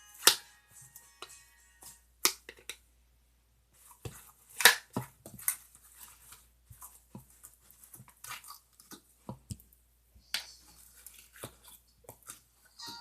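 Slime being squished and kneaded by hand, making scattered wet clicks and pops at uneven intervals, the loudest a quarter second in and around the middle.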